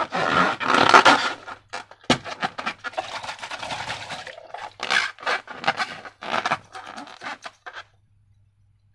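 Slime being worked by hand: a run of short, irregular sticky strokes that stop near the end.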